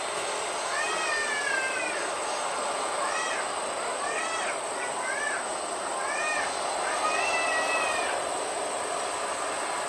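A cat meowing about seven times, each call rising then falling in pitch, two of them drawn out to about a second, over a steady background hiss.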